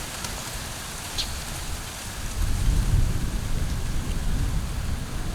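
Low rumbling noise over a steady hiss, swelling about two seconds in, like wind buffeting the microphone, with one short high bird chirp about a second in.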